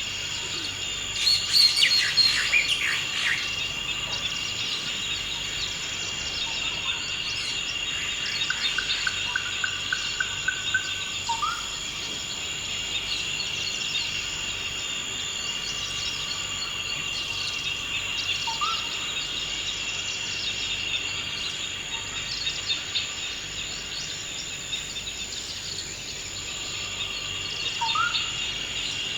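Forest ambience: a steady, high insect drone under bird calls. There is a loud burst of chirps a couple of seconds in and a quick run of repeated notes near the middle, and a short rising whistle recurs every several seconds.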